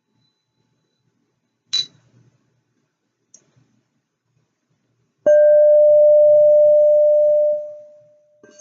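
A short, high ding about two seconds in, then a singing bowl struck loudly about five seconds in, ringing with one steady mid-pitched tone and a fainter higher overtone before fading away near the end.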